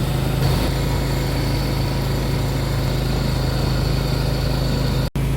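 Can-Am Outlander 850 ATV's V-twin engine running steadily as the machine drives off with its snow plow. The sound drops out for an instant near the end.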